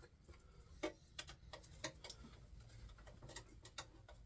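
Light, uneven metallic clicks of a hand ratchet and socket working on a small-block Chevy engine bolt, the socket struggling to grip.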